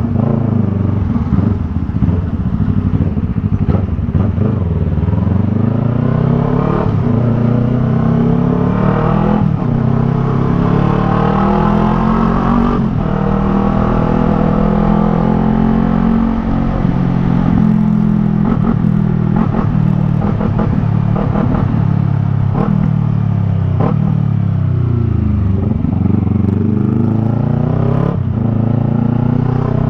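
Yamaha MT-03's 321 cc parallel-twin engine through a Jeskap R3 Cup aftermarket exhaust, ridden with the engine note rising and falling as it accelerates, shifts and slows. The note drops low twice, a few seconds in and again near the end, then climbs again.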